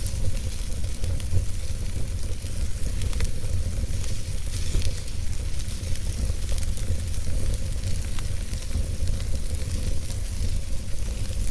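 Wood fire burning in a fireplace: a steady low rumble and hiss of the flames with scattered small crackles and pops.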